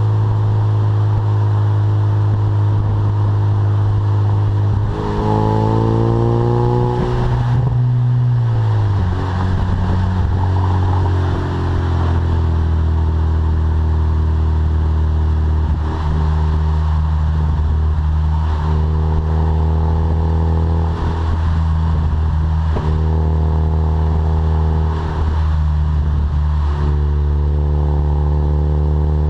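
A 2015 Ford Mustang EcoBoost's 2.3-litre turbocharged four-cylinder running through a Magnaflow Competition exhaust while the car is under way. The engine note climbs for a few seconds, drops sharply, then holds steady at a lower pitch with a few brief rises.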